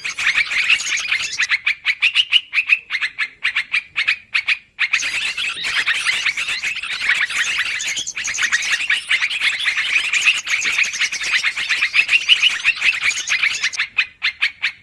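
Yellow-vented bulbuls (trucukan) chattering noisily, a dense stream of quick, repeated call notes with a brief break about four and a half seconds in. This is a bird-lure call, played to draw the birds in.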